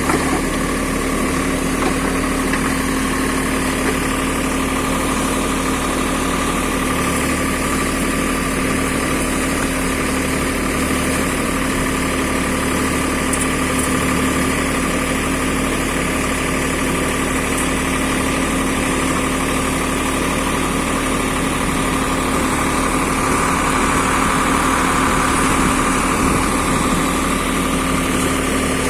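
Backhoe engine running steadily, getting slightly louder about three-quarters of the way through.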